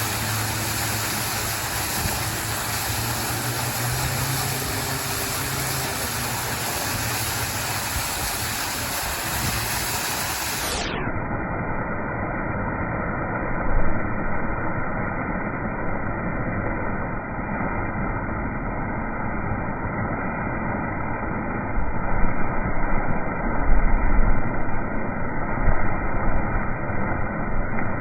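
Heavy rain pouring down in a steady hiss, growing louder and more uneven near the end.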